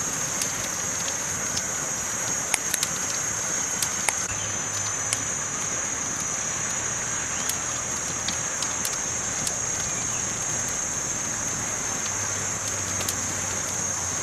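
Campfire crackling: scattered sharp pops and snaps of burning wood over a steady hiss, with a few louder pops a few seconds in.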